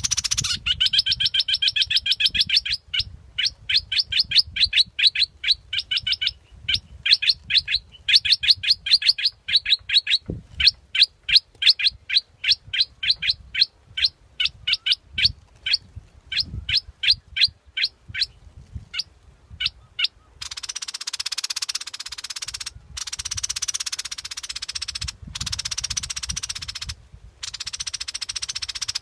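A bulbul, the bird called 'nok dok taeng' in Thai, calling in a fast run of repeated sharp chattering notes, about four a second, that thin out and stop about twenty seconds in. A steady hiss then takes over, cut by a few sudden short gaps.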